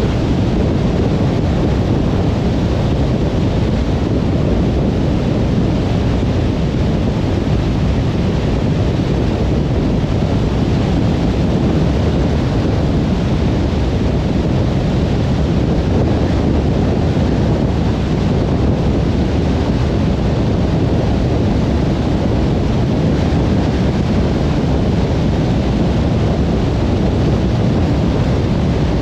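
Steady low rumble of a car cruising on a motorway: an even road and wind noise that stays at one level with no changes.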